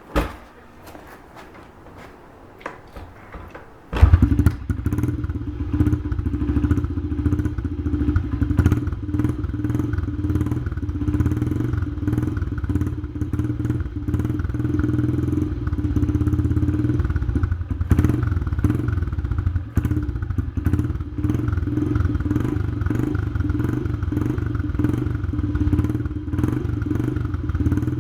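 Honda CRF70F pit bike's small four-stroke single starting after a thump and a few knocks, catching about four seconds in, then idling steadily on its stock exhaust.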